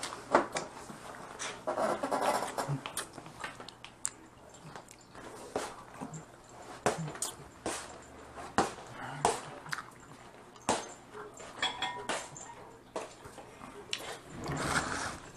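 Eating at close range: Dungeness crab shells cracking and snapping, with chewing and mouth sounds, a string of sharp irregular cracks and clicks.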